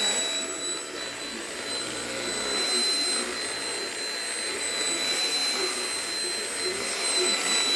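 Keromee UV dust mite vacuum cleaner's motor running steadily, a rushing hiss with a thin high whine over it.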